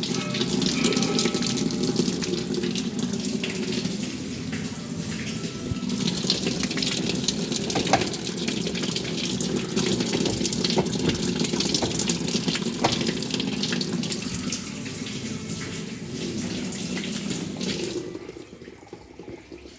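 Water running steadily into a washing machine tub, the water supply that will not shut off. The flow falls away sharply near the end.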